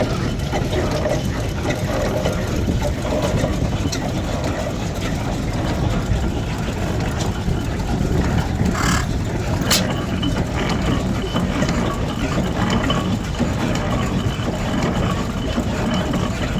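An engine running steadily at idle, with a brief hiss about nine seconds in and a sharp click just after.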